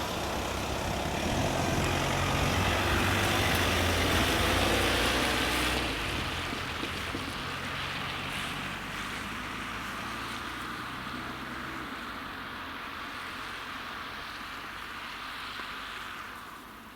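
Diesel train's engine hum and rolling noise as it moves away: loudest about four to five seconds in, then gradually fading, and dropping off sharply near the end.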